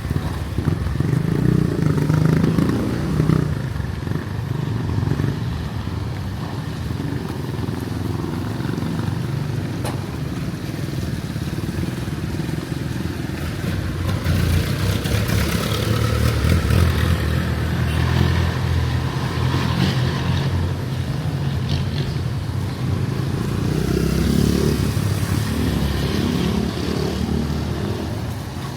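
Street traffic with motorcycle engines running and passing close by, louder about halfway through and again near the end.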